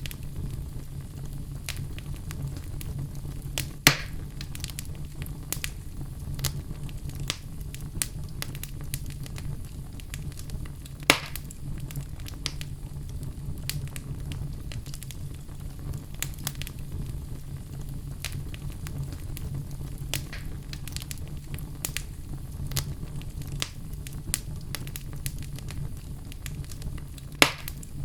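Wood fire burning in a fireplace: a steady low rumble with many small irregular crackles and three loud pops.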